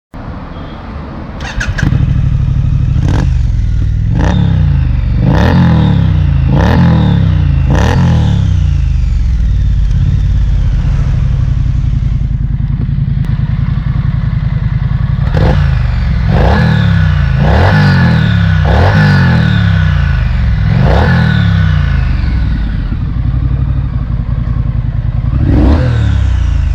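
2020 Triumph Street Scrambler's 900 cc parallel-twin engine, running through its exhaust: it comes up loud about two seconds in. It idles between two runs of quick throttle blips, each a short rev up and straight back down, with a last blip near the end.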